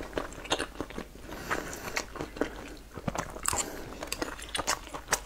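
Close-miked chewing of boiled dumplings in chili oil: an irregular run of short, sharp mouth clicks and smacks.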